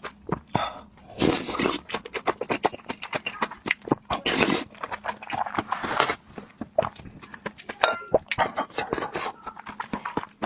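Close-miked mouth sounds of a person eating: quick wet chewing and smacking clicks, with a few longer noisy bursts about one, four and a half and six seconds in.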